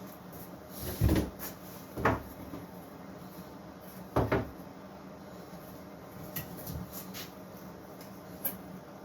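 A few dull knocks and clunks, about one, two and four seconds in, with fainter clicks later: wooden pieces or a cabinet being handled.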